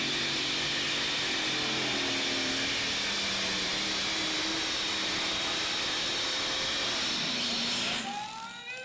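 Pulling vehicle's engine running flat out under load during a pull, loud and steady with its pitch shifting a little as the run goes on, over a strong hiss. It cuts off abruptly about eight seconds in, and a voice follows near the end.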